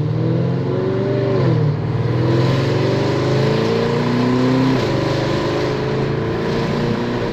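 Tuned Audi S6 engine accelerating through the gears, its note climbing, with two upshifts: one about a second and a half in and one near five seconds in. Road and tyre hiss runs underneath.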